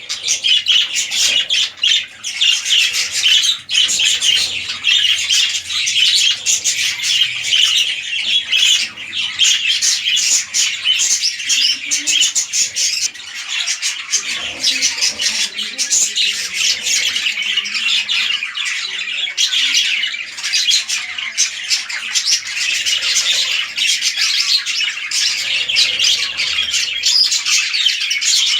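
Budgerigars chattering and squawking steadily, with many rapid, sharp, overlapping notes.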